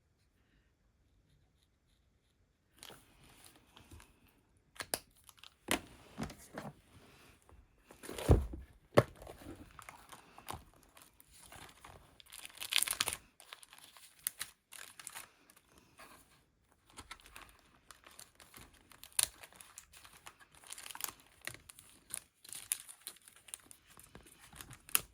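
Plastic craft packaging crinkling and rustling, with small clicks and knocks, as packets of embellishments are handled and sorted through. It starts about three seconds in, with one louder knock about eight seconds in.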